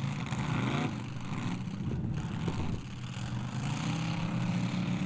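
Demolition derby cars' engines running, a steady low engine drone whose pitch shifts as the drivers rev, with a brief rise about a second in.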